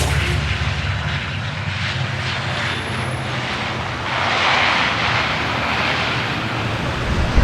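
Airliner jet engines running with a steady rumble and rush of noise, swelling louder about four seconds in. There is a short thump near the end.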